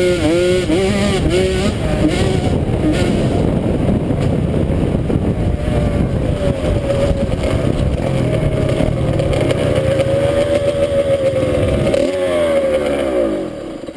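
Dirt bike engine running under way, its pitch rising and falling with the throttle and gear changes, then falling away near the end as the bike slows.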